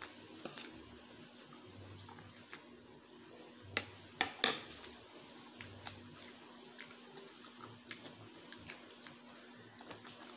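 Close-up eating sounds: a fork clicking and scraping on a metal tray, and mouth smacks while chewing a bite of boiled egg, with a cluster of louder clicks a little past four seconds in. A faint steady hum runs underneath.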